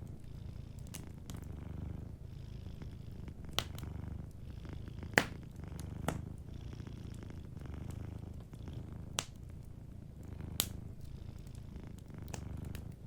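Domestic cat purring steadily in a low rumble, with wood fire crackling in sharp, scattered pops, about five of them, the loudest about five seconds in.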